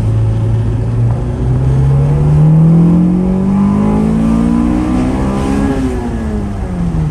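Honda B18C four-cylinder engine of an Integra accelerating hard: a steady engine note for about a second, then a long smooth climb in pitch for about four seconds, falling again near the end as the throttle comes off.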